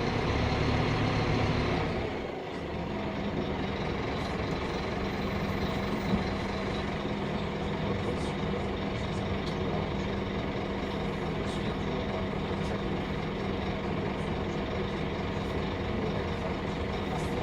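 Scania K310UB bus engine running, louder at first and easing off about two seconds in, then settling into a steady low drone.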